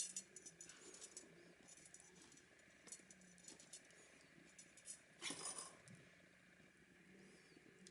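Faint, scattered light ticks and clinks, with a slightly louder clatter about five seconds in.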